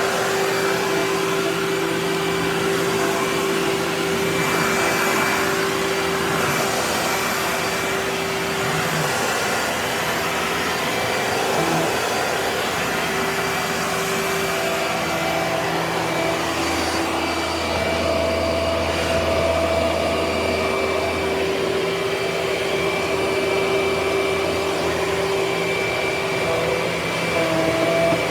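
Vacuum cleaner motor running steadily under test, a continuous whine whose pitch shifts slightly now and then. A deeper hum joins for a few seconds past the middle.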